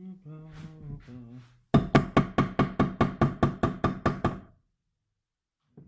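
A quick run of about fourteen evenly spaced metallic taps, each with a short ring, like a hammer tapping on metal. The taps start about two seconds in and stop after about two and a half seconds. They follow a brief mumble.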